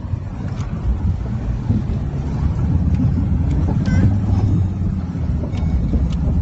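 A four-wheel-drive vehicle's engine working hard under heavy throttle as it pushes through a river crossing. It is a loud, low rumble that builds over the first couple of seconds and then holds steady.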